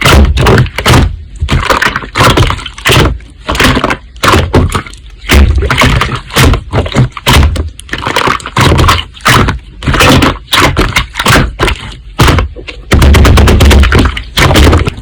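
Slime being pressed and worked by hand, giving a continuous run of loud, sharp pops and crackles, several a second. They come thickest near the end.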